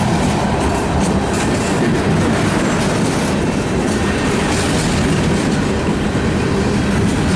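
Freight cars of a CN mixed freight train (tank cars and boxcars) rolling past close by: steady, loud noise of steel wheels running over the rails.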